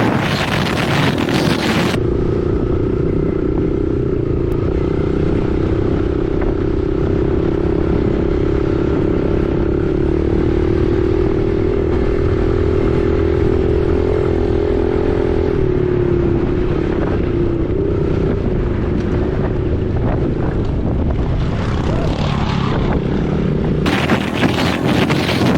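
Dirt bike engine running at a steady speed, its note holding level for about twenty seconds and dipping slightly past the middle, with heavy wind noise on the microphone in the first and last couple of seconds.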